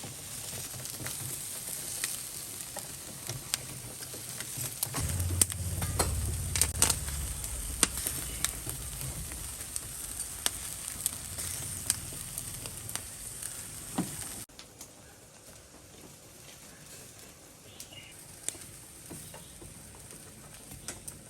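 Food sizzling on a barbecue grill, a steady hiss with scattered sharp pops and crackles. About two thirds of the way through it cuts suddenly to a fainter sizzle.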